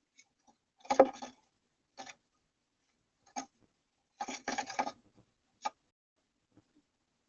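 Scratching and tapping of a bird moving inside a wooden nest box, in short bursts with quiet gaps between them. The loudest burst comes about a second in and a longer run of scratching comes a little past the middle.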